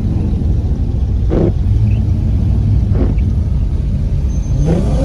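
Car engine rumbling steadily, with a short whoosh or two, then an engine revving up in rising pitch near the end.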